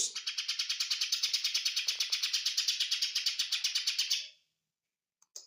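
Lesser green leafbird (cucak ijo mini) giving one long, fast, rattling trill of about nine even pulses a second, stopping abruptly a little over four seconds in.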